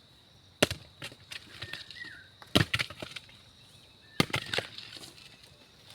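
Hand tool striking into the ground to dig a planting hole: three heavy blows about two seconds apart, with lighter knocks between them.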